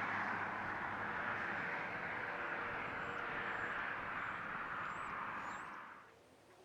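Freight train rolling past, a steady rush of wheels on the rails slowly dying away, with the locomotive engine hum fading early. The sound is cut to silence about six seconds in.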